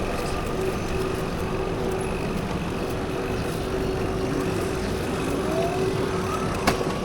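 Steady mechanical hum and rumble, with a single sharp click near the end.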